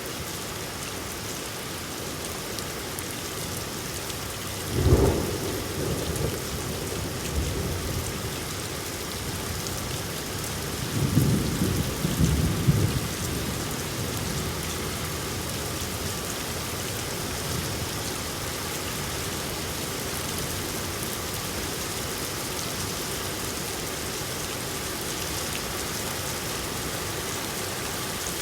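Steady rain falling, with thunder rumbling twice: a sharp clap about five seconds in that fades over a second or two, and a longer rumble a few seconds later.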